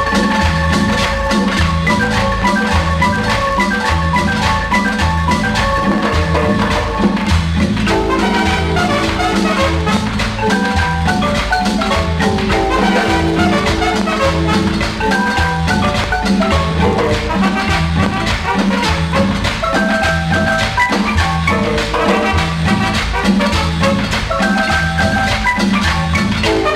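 Guatemalan-style marimba music: quick mallet runs of short notes over a steady bass and percussion beat.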